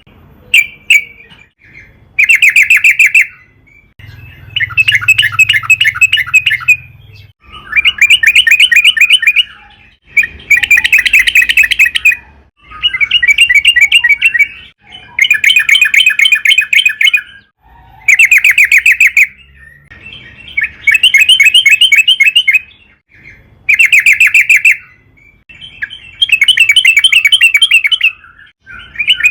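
Sooty-headed bulbul (trucukan) singing loudly: about a dozen phrases, each a fast run of notes lasting a second or two, with short pauses between them.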